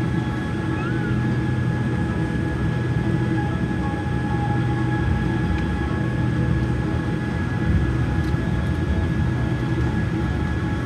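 Boeing 787-8 cabin noise on the ground after landing: a steady low rumble with several steady whining tones.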